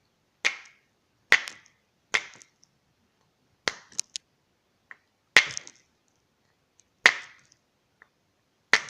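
Two stones struck together by hand to throw sparks: a series of sharp clacks, about one a second, with a quick double strike near the middle.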